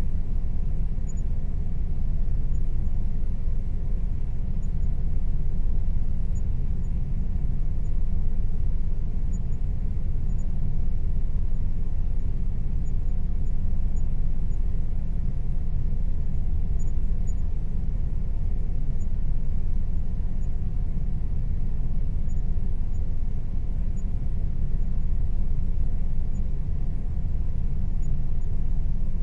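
Air conditioner running steadily: a constant low hum with a faint steady tone above it, unchanging throughout.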